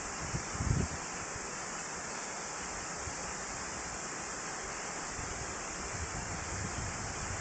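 Waterfall rushing steadily, an even wash of falling water with a brief wind buffet on the microphone about a second in.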